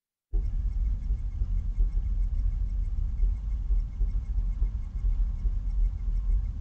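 Freight train rumbling low and steady. The sound cuts in about a third of a second in, after a brief dropout.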